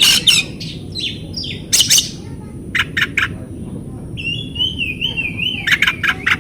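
Oriental magpie-robin (kacer) singing: a wavering whistled phrase about two thirds of the way through, with short, sharp, harsh notes near the start, about a second or two in, around three seconds in and in a quick run near the end.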